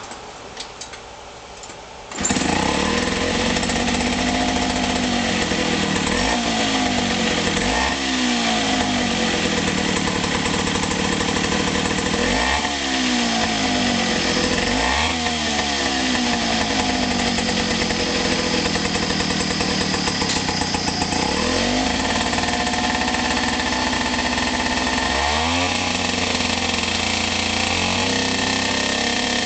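Suzuki DT4 4 hp two-stroke outboard motor starting about two seconds in, then running and revved up and back down several times.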